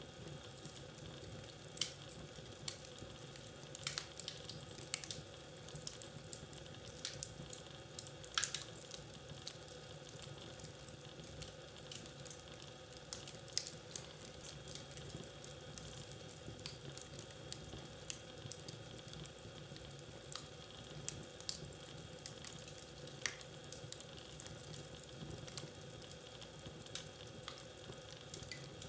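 Wood fire burning in a fireplace, crackling: irregular sharp pops and snaps over a steady hiss.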